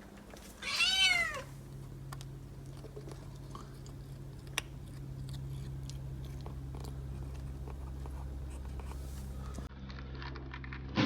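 A cat meows once, a single rising-then-falling call about a second in. It is followed by faint scattered clicks of chewing over a steady low hum.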